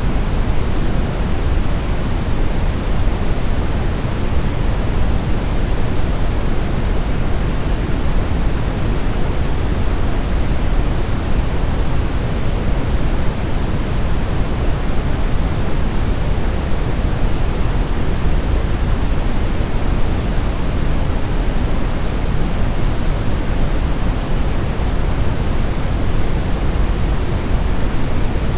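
Synthetic brown noise: a steady, deep hiss, strongest in the low end and falling away toward the highs, with no changes or events.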